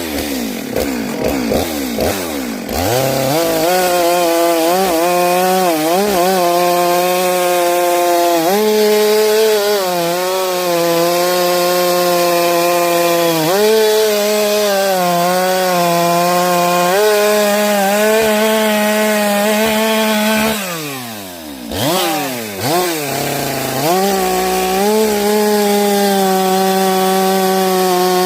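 Chainsaw cutting through firewood. The engine revs up at the start, then holds a high steady pitch under the cut with small repeated sags as the chain bites. About three quarters of the way through, the throttle eases off and the engine slows down, then it revs back up and keeps cutting.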